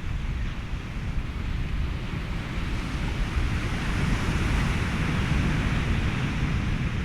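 Ocean waves and wind mixed with white noise as a steady rushing wash, with a wave swelling up about halfway through and easing off again.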